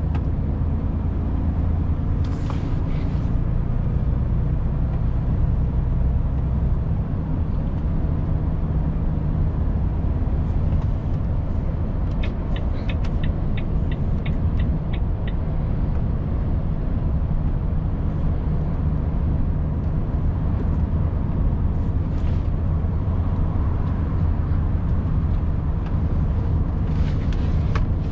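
Volvo FH 500 truck's 13-litre inline-six diesel running steadily under way, its low drone changing note about a third of the way in. Short air hisses come from the air brakes early on and near the end, and midway a run of evenly spaced ticks, about three a second, sounds like the turn-signal indicator.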